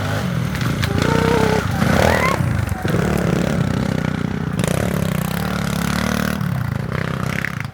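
Pit bike engine running close by, its pitch rising and falling in the first few seconds.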